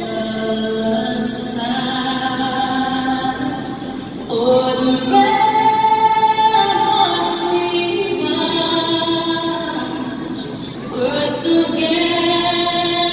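A woman singing solo and unaccompanied, slowly, holding long notes, in a patriotic song sung standing before the show.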